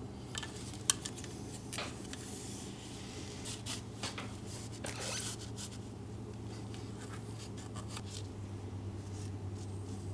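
Light handling noises: scattered small clicks and brief rubbing and scraping as the snowmobile's engine-oil dipstick is pulled out and handled. A steady low hum runs underneath and drops slightly in pitch about eight seconds in.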